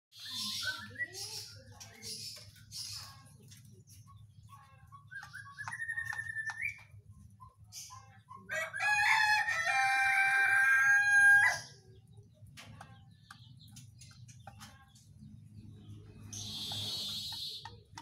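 Agitated whistling thrush (ciung batu) calling with short whistles and harsh, scratchy high calls. Halfway through, a rooster crows loudly for about three seconds.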